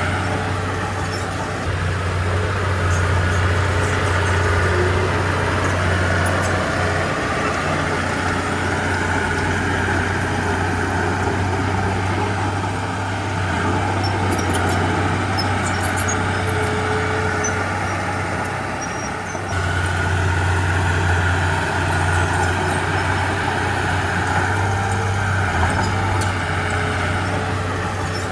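Komatsu D31P bulldozer's diesel engine running steadily as it works, with the load easing and picking up again a few times, and faint clinks of the tracks and blade.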